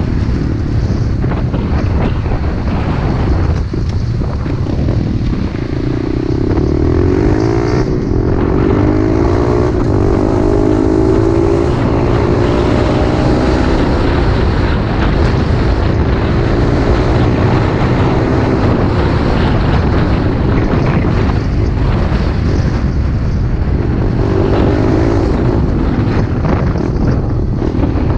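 Pit bike engine running while riding, its note rising and falling with the throttle, climbing about six seconds in and again briefly near the end, over a constant heavy rumble of wind on the microphone.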